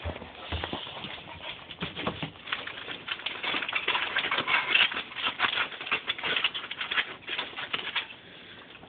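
A dog's claws clicking and tapping rapidly on a hard floor as it hurries along, the patter busiest in the middle and dying away near the end.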